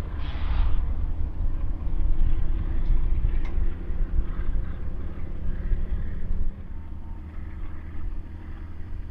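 Low, steady rumble of a passing BNSF freight train, with a short hiss about half a second in; the rumble drops away about six and a half seconds in.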